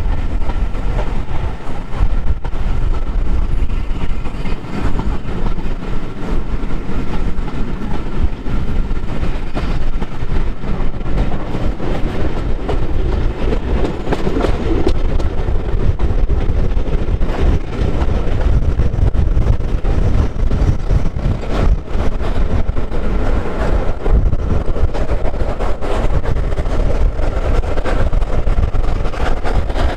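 A train running on the rails: a loud, steady rumble with many short clicks of wheels and rail joints.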